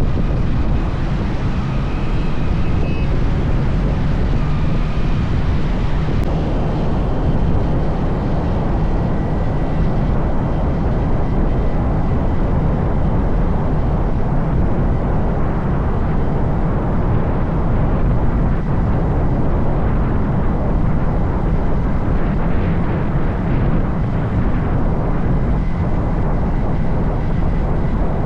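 Steady rumble of a motorcycle ride: the running engine and road noise, with wind buffeting the microphone.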